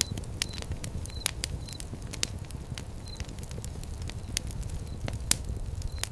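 Fire pit crackling, with frequent irregular sharp pops over a low rumble of burning and one louder pop about five seconds in.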